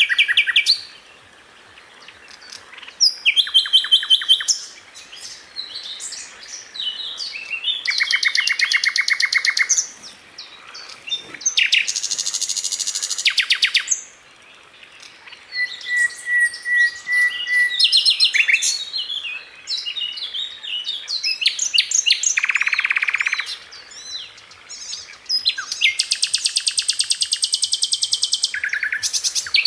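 Sikatan londo flycatcher singing in fast bursts of rapid repeated notes, the 'tembakan' rattles kicau keepers use for tutoring. Each burst lasts a second or two, with short gaps and scattered high chirps between them; some bursts are pitched much lower than others.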